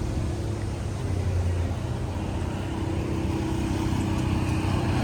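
An engine running steadily with a constant low hum, slowly getting louder.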